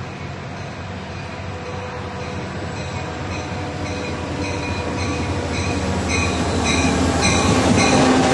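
Caltrain EMD F40PH diesel locomotive approaching and passing close by, its engine and wheels growing louder as it nears. Its bell starts ringing a few seconds in, about twice a second. The bilevel gallery cars roll past near the end.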